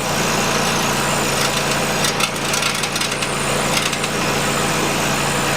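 Loose heat shield on the exhaust resonator of a 2008 Nissan Qashqai 2.0 rattling steadily against the pipe with the engine idling, a loud buzzy rasp over the low engine hum. Its mounting has rusted away.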